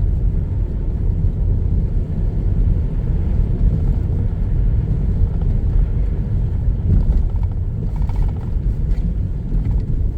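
Steady low rumble of a car driving on a snowy road, engine and road noise heard from inside the cabin.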